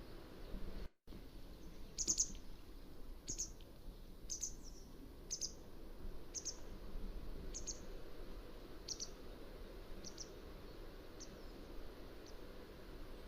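Mountain wagtail calling: a run of short, high notes, about one a second, growing fainter toward the end, over a steady background hiss. The sound cuts out briefly about a second in.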